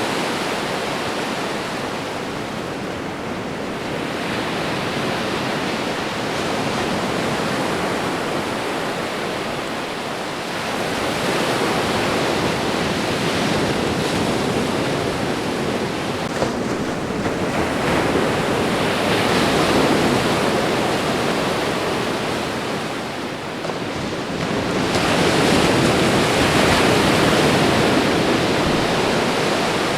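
Ocean waves washing onto a shore: a continuous rush of surf that swells and eases every several seconds as each wave comes in, the loudest swell near the end.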